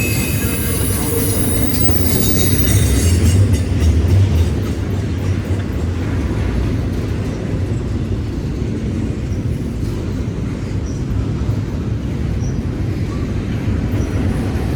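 A train's cars rolling past on the track: a steady heavy rumble with wheel-on-rail rattle, loudest in the first few seconds and easing a little after that.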